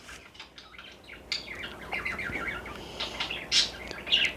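Small pet birds chirping: a quick run of short chirps starting about a second in, with a few louder, higher calls near the end.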